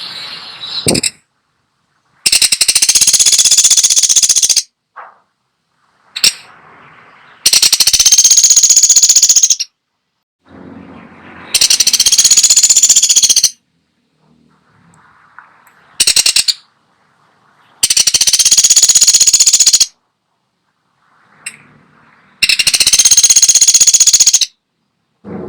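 Woodpecker (pelatuk sampit) calling in loud, very rapid rattling trills, each about two seconds long and repeated about every five seconds, with a few shorter single calls between them.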